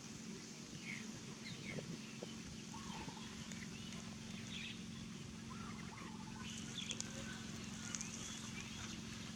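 Scattered short, high animal chirps and squeaks, with a few brief calls, over a steady low hum.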